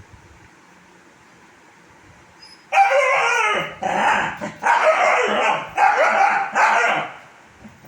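Kombai puppy barking: a run of long, drawn-out barks with falling pitch starts about three seconds in and lasts about four seconds.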